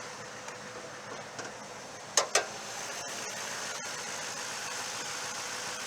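Toyota Tundra's 5.7-litre i-Force V8 idling steadily. A little over two seconds in come two sharp clicks in quick succession as the hood latch is released, and after them the engine is a little louder.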